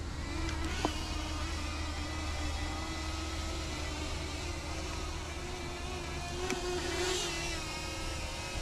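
Small quadcopter drone's propellers running with a steady hum that wavers slightly in pitch and swells briefly about seven seconds in, over a low steady rumble.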